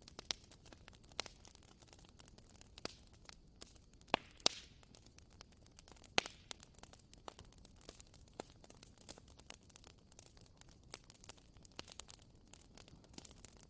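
Bonfire crackling: irregular sharp pops and snaps over a faint steady hiss, with a few louder pops about four and six seconds in.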